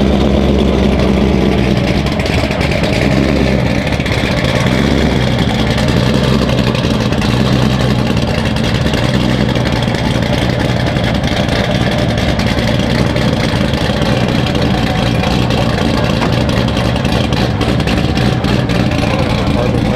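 A VW Golf GTI's turbocharged four-cylinder engine running under way at fairly steady revs, with the noise of the car moving.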